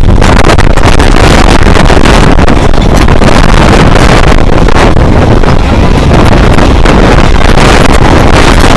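Train running at speed, heard from on or beside it, with heavy wind buffeting the microphone; the sound is loud and distorted.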